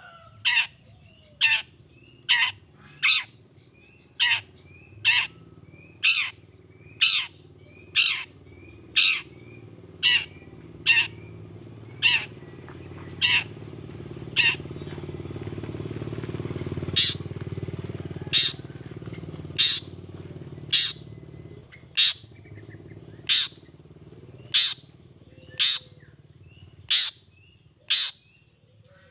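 Long-tailed shrike (cendet) giving a long series of short, harsh calls, roughly one to two a second with a brief pause near the middle, with faint small chirps between them. A low rumble swells in the middle and fades again.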